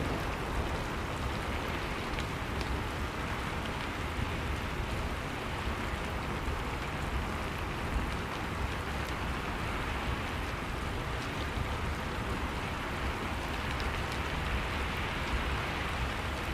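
Steady rain falling without a break, with a constant low rumble underneath.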